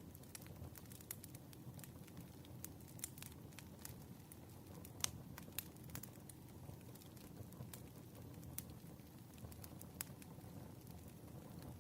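Wood fire burning, with irregular sharp crackles and pops over a low steady rumble; the loudest pop comes about five seconds in.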